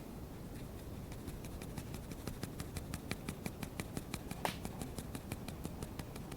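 A rapid, even series of light clicks, several a second, with one louder click about four and a half seconds in.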